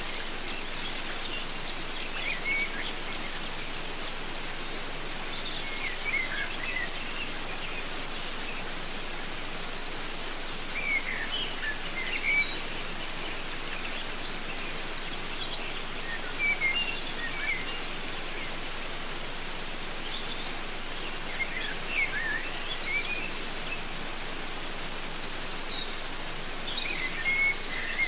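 Steady rushing of a waterfall, with a bird calling in short, quick chirping phrases that recur every four to five seconds.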